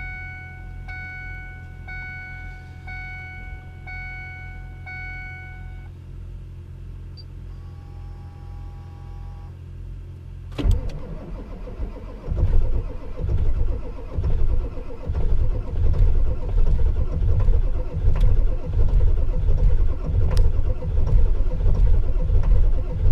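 A warning chime beeps about once a second for six seconds, and a second chime tone follows. About ten seconds in, the starter of a Ford 7.3-litre V8 diesel engages and cranks it over in deep cold, turning over roughly and unevenly as some cylinders begin to fire without the engine catching.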